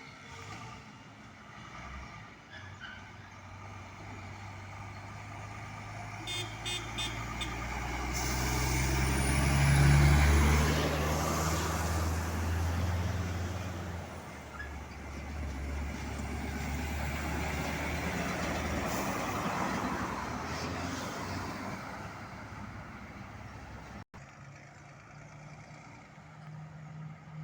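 Heavy truck engine drawing near, loudest about ten seconds in, then fading away as the truck drives past.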